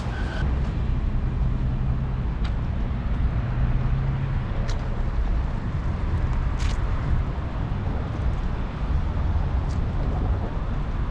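Old tram running: a steady low rumble from its motors and wheels, with a humming tone that comes and goes and a few sharp clicks.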